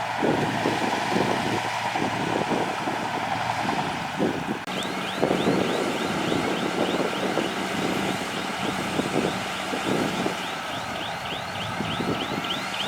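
Diesel engine of heavy earthmoving machinery running steadily. From about five seconds in, a run of short high squeaks repeats two to three times a second over the engine.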